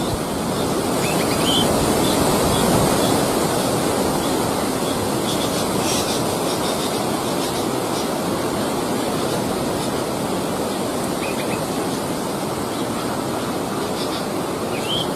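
Steady rushing noise throughout, with a few faint short high chirps.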